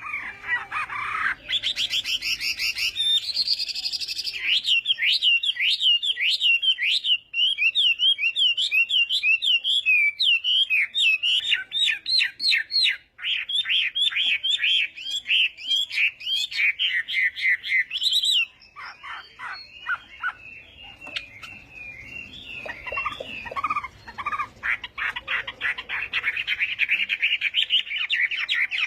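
Chinese hwamei singing a long, varied song of rapid repeated whistled notes and trills, changing phrase every few seconds. About two-thirds of the way through the song turns softer and more broken for a few seconds, then fast repeated notes come back.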